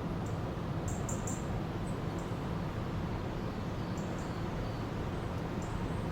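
River water flowing steadily, with small birds giving short, high-pitched chirps now and then, a quick cluster about a second in.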